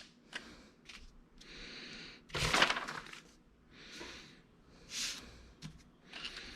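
Parts of a plotter stand being handled and fitted by hand: several short rubbing, scraping noises and a few light clicks, the loudest scrape about two and a half seconds in.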